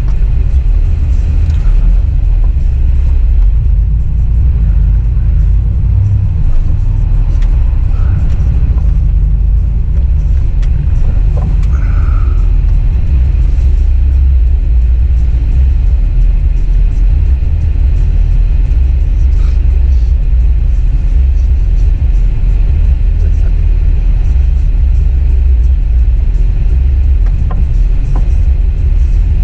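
Steady low rumble of a full-size truck running, the engine and drivetrain heard close, with no clear change in pace.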